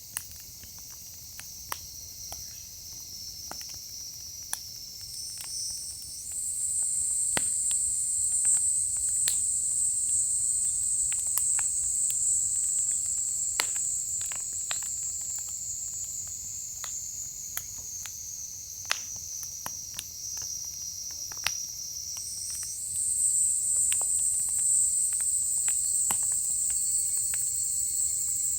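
Firewood burning with scattered sharp crackles and pops, over a steady high-pitched insect chorus that gets louder and higher about six seconds in and again near the end.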